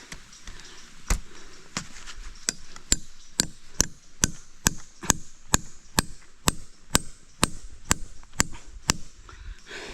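Steady chopping strikes, about two a second and some seventeen in a row, starting about a second in and stopping just before the end.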